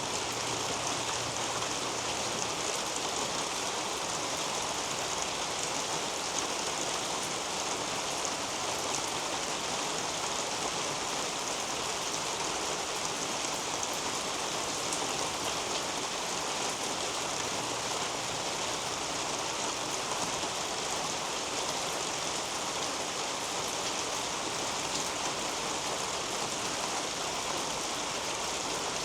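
Steady rain falling on garden leaves, a dense, even patter of drops that holds level throughout.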